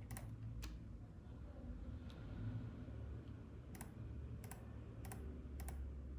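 Scattered computer keyboard clicks, six in all, two near the start and four close together later on, over a low steady hum.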